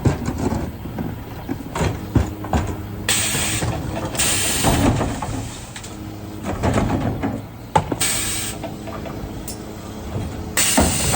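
Mercedes Econic refuse truck with a Zoeller bin lifter working, its engine and hydraulics running steadily under clanks and knocks of the lifter and bins. Four short bursts of hissing air come about 3, 4, 8 and 10 seconds in.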